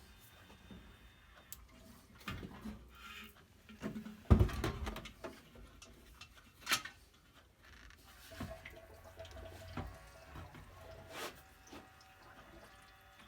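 Diesel fuel being pumped into a diesel heater's fuel tank: trickling liquid among irregular knocks and clicks of handling, with one loud thump about four seconds in.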